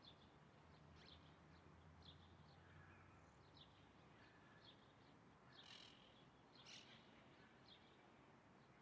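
Faint bird calls: short high chirps repeating about once or twice a second, with two louder, fuller calls about six and seven seconds in.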